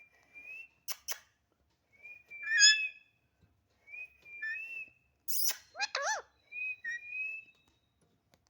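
Pet parrot whistling: four or five short whistles at much the same pitch, one rising slightly at its end, with sharp clicks about a second in and another just past five seconds. Around six seconds in comes a short call that bends up and down in pitch.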